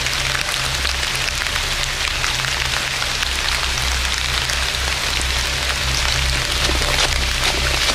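Steady light rain, a drizzle of fine pattering drops, with a low rumble underneath.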